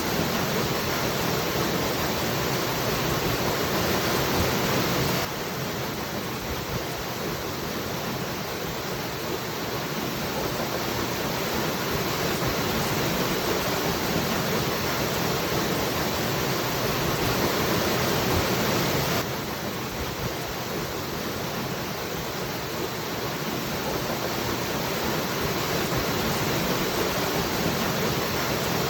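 Waterfall rushing in a steady, dense roar of falling water. The level drops suddenly about five seconds in and again near nineteen seconds, then slowly builds back each time.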